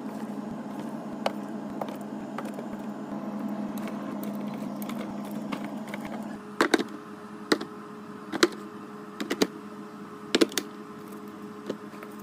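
Containers being set down and arranged on fridge shelves during restocking: a steady hum, then from about halfway through a run of irregular sharp clicks and knocks as items are placed.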